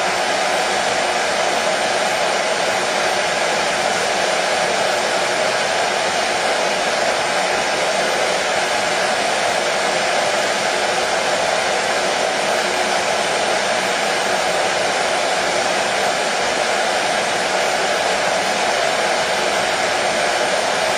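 Hair dryer running continuously at a steady pitch and level, an even whooshing rush of air with a motor hum, used as soothing white noise for colicky babies.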